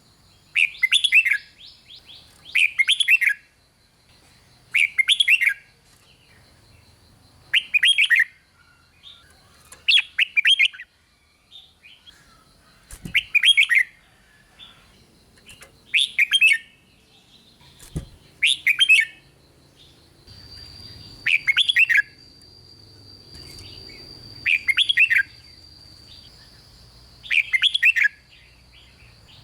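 Red-whiskered bulbul singing short, bright, warbling phrases, one every two to three seconds.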